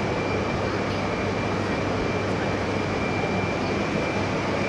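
Steady rushing machinery noise from a 200 series Shinkansen train at the platform, with a low hum and a thin steady high tone over it.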